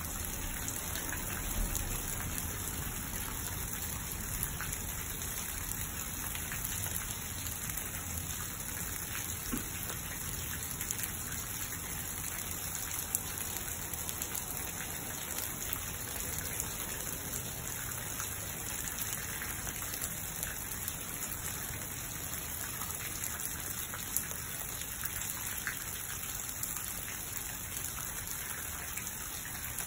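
Steady rain falling: an even hiss throughout, with a few louder single drops ticking here and there.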